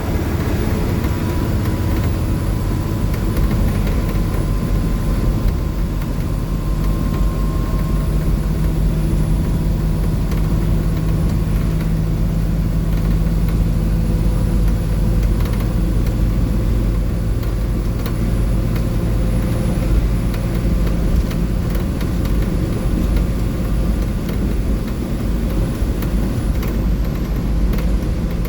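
2004 Blue Bird 3800 bus at highway speed, heard from on board: the steady drone of its International DT466E inline-six diesel under a constant roar of road and tyre noise.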